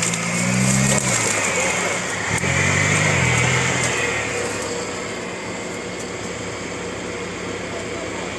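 Off-road vehicle engine revved hard twice, its pitch rising and falling, then settling to a steadier, quieter run.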